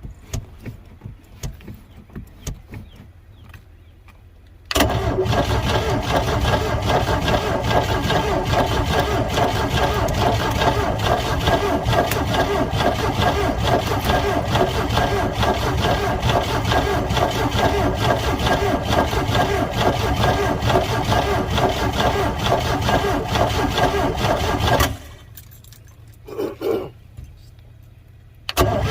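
Engine of a 1985 Four Winns 170 Horizon boat being cranked over by its starter after sitting unused since 2013 and primed with starter fluid, turning over steadily for about twenty seconds without catching. It stops, gives one brief crank, then starts cranking again just before the end.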